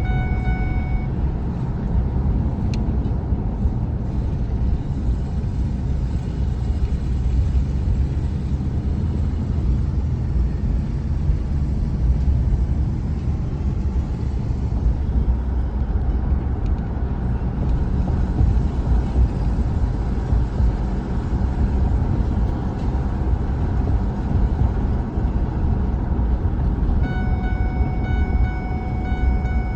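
A truck driving, with a steady low engine and road rumble. A steady high-pitched whine with overtones sounds over it in the first second and again in the last few seconds.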